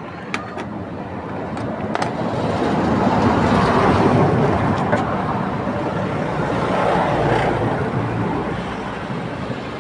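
Road traffic: passing vehicles swelling and fading twice over a steady low hum, with a few sharp clicks.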